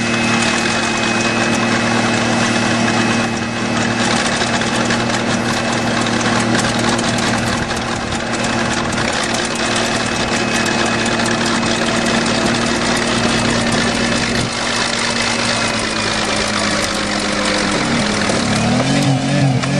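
Engines running steadily under a dense, continuous clatter: a bulldozer's engine and a car engine held at high revs by a piece of wood wedged in its throttle. Near the end the engine note shifts and begins to waver up and down.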